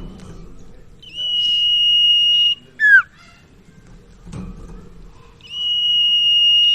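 Common iora (sirtu, cipoh) singing: a long steady high whistle held for about a second and a half, then a short sharply falling note, with the long whistle starting again near the end.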